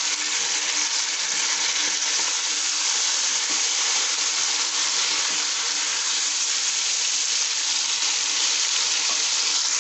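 Raw chicken pieces and sliced onions frying in hot oil in a metal wok, a steady sizzle, as a spatula stirs and turns them.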